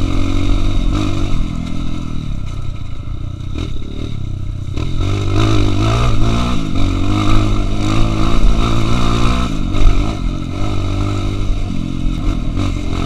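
Trail motorcycle engine running, its pitch rising and falling as the throttle is opened and closed, with a few knocks along the way.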